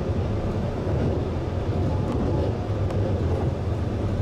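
Steady running rumble of an E257-series limited express electric train, heard from inside its front car behind the driver's cab as it rolls along the line.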